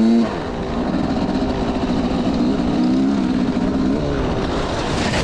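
Motorcycle engine running under way, its pitch dropping just after the start, rising again around the middle and falling off about four seconds in, over steady wind and road noise.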